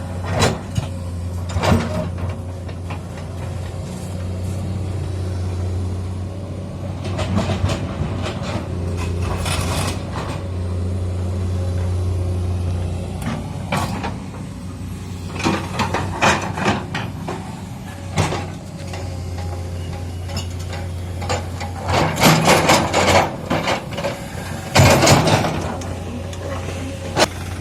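Komatsu PC200 hydraulic excavator's diesel engine running steadily, its drone rising and falling with load, with repeated bursts of clanking and scraping as the bucket works stone boulders.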